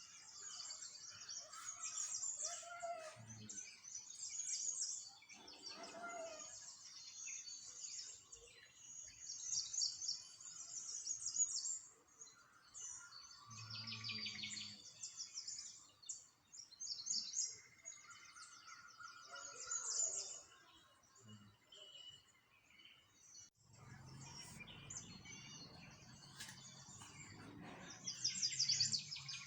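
Small songbirds chirping and twittering, many quick high trills overlapping one another with a few lower calls among them. A low rumble comes in toward the end.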